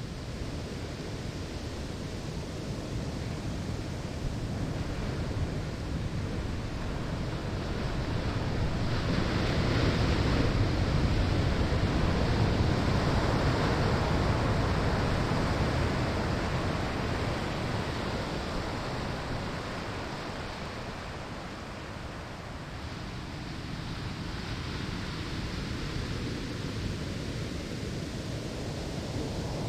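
Ocean surf breaking on a sandy shore: a steady wash of waves that swells into a louder break about a third of the way in, then slowly ebbs away.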